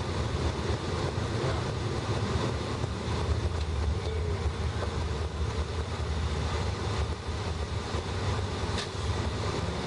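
Steady road and engine noise inside a moving car's cabin: mostly a low rumble with an even hiss above it.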